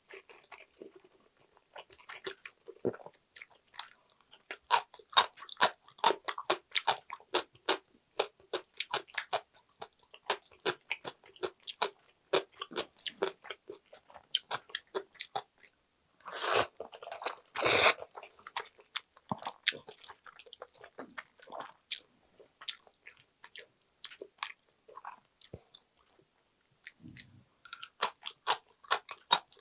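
Close-miked chewing of chewy jjolmyeon noodles: dense wet mouth clicks and smacks. A little over halfway through come two loud slurps as a bundle of noodles is sucked in.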